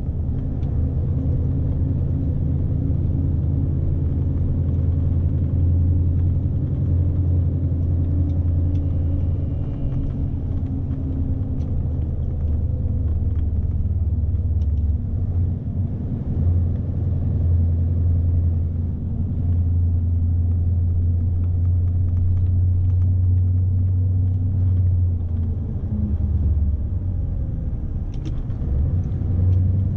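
Scania S520's V8 diesel engine and road noise heard from inside the truck cab: a steady low rumble that shifts slightly in pitch a few times as the truck drives on.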